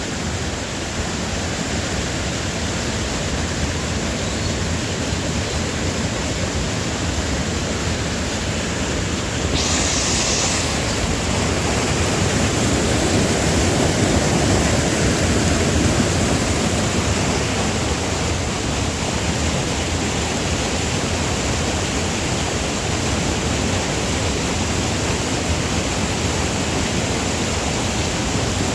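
Steady rush of a mountain waterfall, an even roar of falling water, with a brief sharper hiss about a third of the way in.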